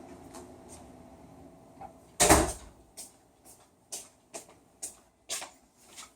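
One loud clunk of hard objects about two seconds in, then a run of about seven lighter clicks and taps, made by hand handling during a power-tool repair.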